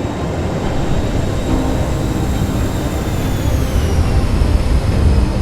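Jet aircraft engine noise: a steady low roar with a high turbine whine that falls in pitch about three to four seconds in.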